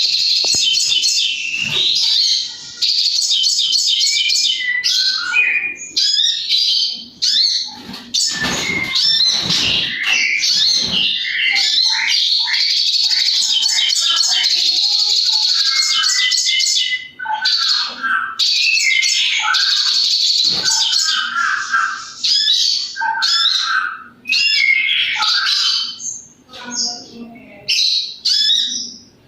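A sogon (crested jay) calling almost nonstop: fast rattling trills and chattering high-pitched phrases, with only brief pauses, in the frantic nonstop form that keepers call 'konslet'.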